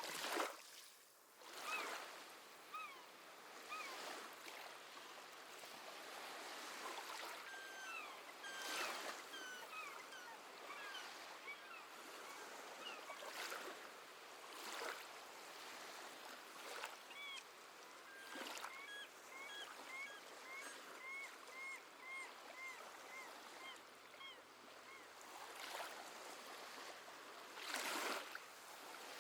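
Gentle sea waves washing in and out in repeated surges, with seabirds giving short, repeated cries over them, several together in a quick run about two-thirds of the way through.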